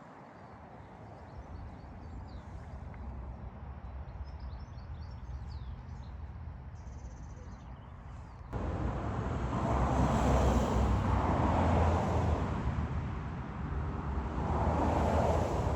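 Road traffic. A low, steady rumble with faint bird chirps above it, then about halfway in it turns abruptly louder as vehicles pass, the tyre and engine noise swelling and fading twice.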